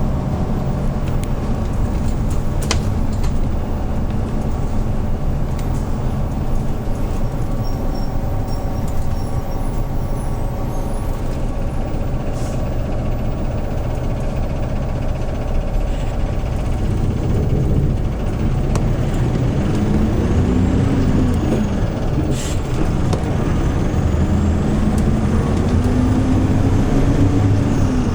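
Hyundai New Super Aero City CNG city bus engine running under way, with a steady hum. Its pitch climbs and then drops twice in the second half as the bus pulls away and accelerates, with a few sharp clicks and rattles.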